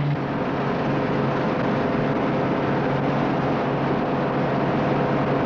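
International combine harvester running steadily while harvesting, a continuous mechanical din with a low steady hum.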